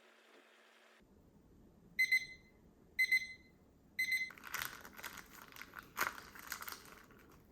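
Three short, high electronic beeps about a second apart, like an appliance or timer signalling it has finished. They are followed by crinkling and rustling, with sharp clicks, of packaging or kit parts being handled.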